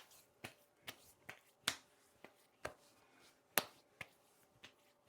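Hands patting and slapping aftershave onto the face: a series of sharp, irregular slaps, about two a second, the loudest about three and a half seconds in.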